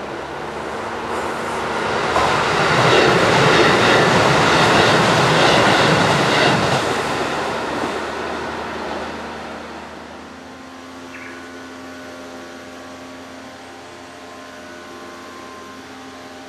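A train on the Kisei Main Line passing unseen: its running noise on the track swells over the first few seconds, stays loud for a few seconds, and dies away by about ten seconds in, leaving a fainter steady background.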